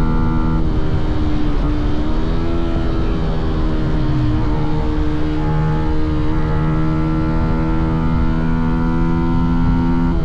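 Fantic Caballero 125's single-cylinder four-stroke engine and exhaust running under way on the road. The pitch dips and rises about a second and a half in, then holds fairly steady.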